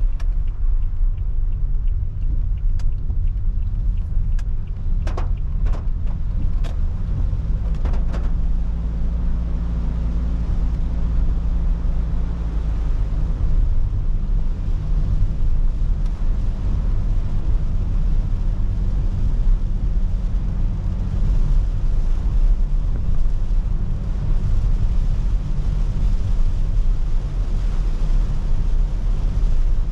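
Car driving in rain, heard from inside: a steady low rumble of engine and tyres with a hiss of rain and wet road over it. A few sharp taps come in the first eight seconds.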